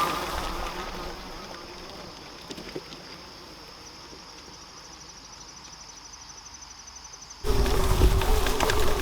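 Insects trilling steadily in a high, finely pulsing drone. A little over seven seconds in, the sound cuts abruptly to a much louder, low wavering drone with a heavy rumble.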